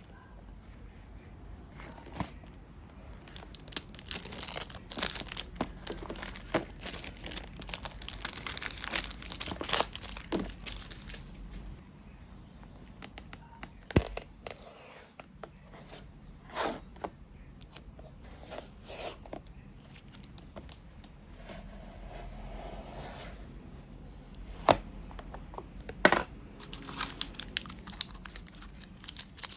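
Crinkling and tearing sounds of something being handled, with scattered sharp clicks and knocks; the sharpest knocks come about halfway through and again near the end.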